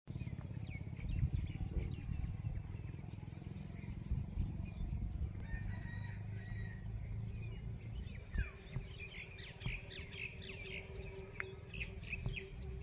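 Several small birds chirping and calling in short quick notes, busiest about two-thirds of the way through, over a steady low rumble.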